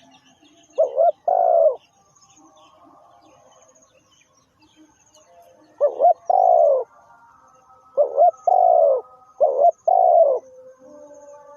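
Spotted dove cooing: paired coos, a short note followed by a longer arched one, once near the start and then three times in quick succession after a pause of about four seconds. Faint high chirps of small birds sound underneath.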